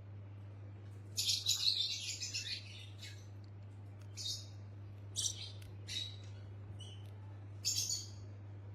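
Pet parrot calling: a long run of harsh, high chirps about a second in, then several short chirps and a final burst near the end, over a steady low hum.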